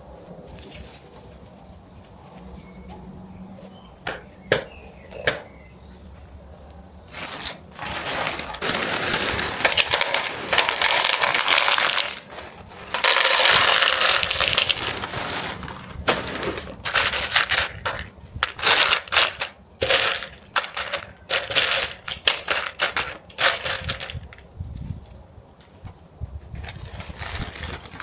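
Repotting handling noises: a few sharp clicks, then irregular crunching and rustling in long bursts that die down near the end.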